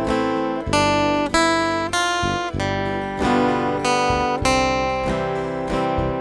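Acoustic guitar playing a slow melody picked note by note with a pick over chords, each note ringing out with a sharp attack about two or three times a second.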